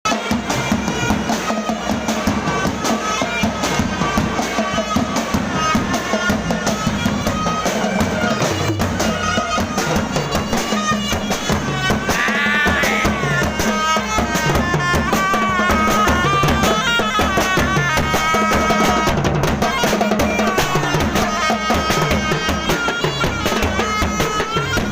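Thai traditional procession band music: drums and gongs keep a steady rhythm under a reedy wind melody over a held drone.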